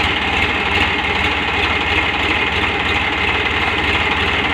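Diesel tractor engine running steadily with a rapid, even low pulsing.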